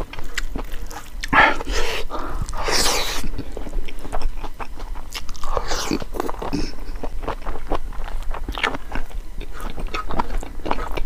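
Close-up chewing and lip smacking of a person eating rice and chicken gizzard curry by hand, as irregular wet clicks with a couple of louder rushes of noise early on.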